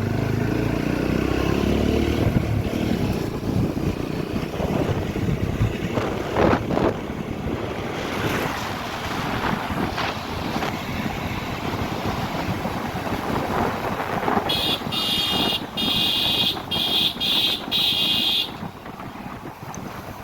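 Motorcycle riding with wind buffeting the microphone; the engine rises in pitch over the first two seconds, after which wind and road noise dominate. About fourteen seconds in, a horn sounds in a string of short blasts lasting about four seconds.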